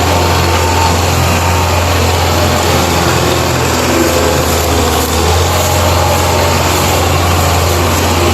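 Belarus tractor's diesel engine running steadily, a loud, unchanging low drone.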